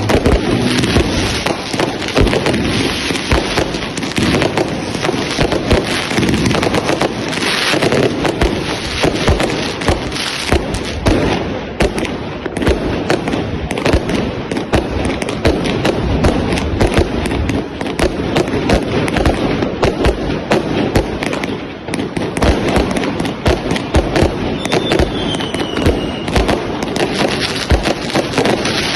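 Dense, continuous barrage of New Year fireworks and firecrackers going off: many overlapping bangs and crackles with no let-up, and a faint falling whistle about 25 seconds in.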